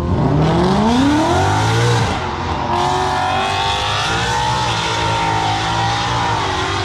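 A car engine revving hard under acceleration, its pitch climbing for about two seconds, then dropping and running on fairly steadily.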